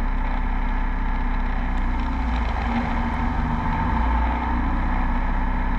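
Beechcraft Bonanza V35 piston engine running steadily at run-up power, about 1900 RPM, with a brief dip and recovery in engine pitch around the middle as the propeller is cycled during the pre-takeoff run-up.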